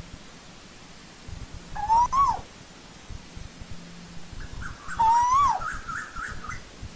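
Asian koel calling: two loud calls about three seconds apart, each a note rising in pitch then dropping sharply at its end, with a rapid run of short higher notes around the second call.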